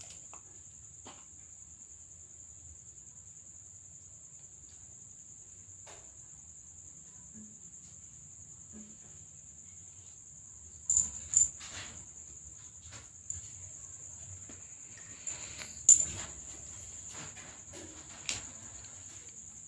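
Crickets trilling steadily at a high pitch, with a few sharp clicks and knocks in the second half, the loudest about two-thirds of the way through.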